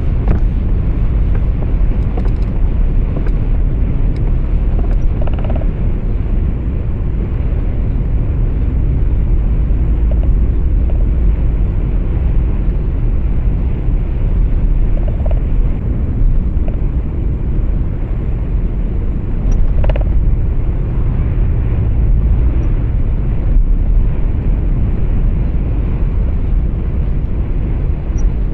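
Steady low rumble of road and engine noise heard from inside a truck's cab while driving, with a few faint brief clicks.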